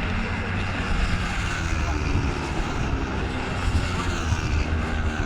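Racing motorcycle engines running in a steady, loud drone, with no single bike clearly passing.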